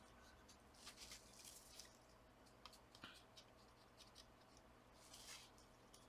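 Faint scratchy rubbing of a dry cotton swab wiping old thermal paste off a laptop's chip and cooler, in a few short strokes, with a light click about three seconds in.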